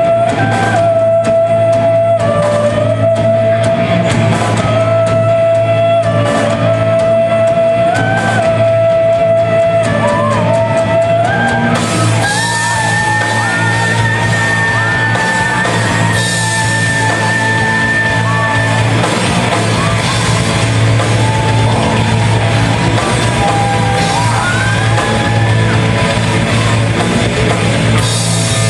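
Live rock band performing in a hall: guitars, bass and drums with a held lead melody that steps and bends upward in pitch.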